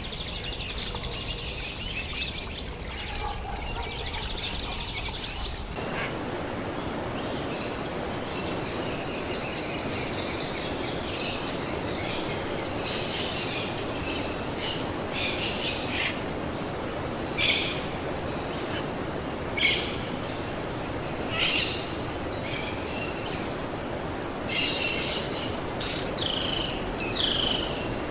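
Birds calling and chirping over a steady background hiss. About six seconds in, the background hiss gets louder. Several sharp, falling calls stand out in the second half.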